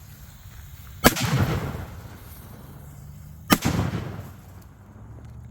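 Two sharp firework bangs about two and a half seconds apart, each trailing off in a short echo.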